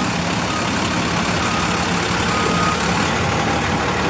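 Bucket truck's engine running steadily with no change in pitch.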